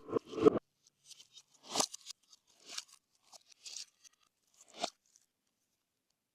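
Slime being squished and pressed by hand: a loud squelch at the very start, then a handful of separate crisp crackles and pops over the next few seconds.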